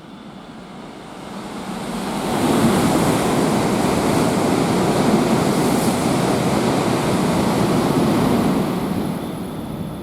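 Tohoku Shinkansen train passing through the station at high speed without stopping: a loud rushing noise of air and wheels that swells over about two seconds, holds steady for about six, then dies away near the end.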